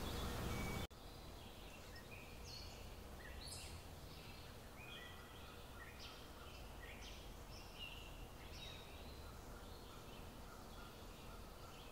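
Faint chirping of small birds, many short high calls over a quiet steady background hiss. A louder noisy sound cuts off abruptly about a second in.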